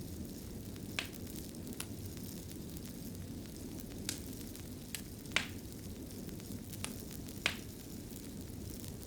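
Wood fire burning in a fireplace: a steady low rumble of flames with sharp crackles and pops scattered irregularly, the loudest about five and a half seconds in and again near seven and a half seconds.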